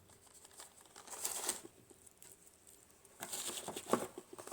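Packaging being handled: rustling and crinkling with small clicks and taps, in two spells, a short one about a second in and a longer one starting about three seconds in.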